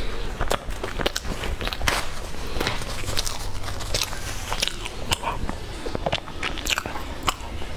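Close-miked chewing of crunchy food with the mouth closed: a run of irregular crunches and wet mouth clicks.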